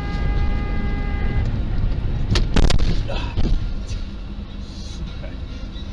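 Car collision heard from inside a vehicle over steady road rumble: a steady horn-like tone for about a second and a half, then a sharp crash of impacts about two and a half seconds in, with a few smaller knocks just after.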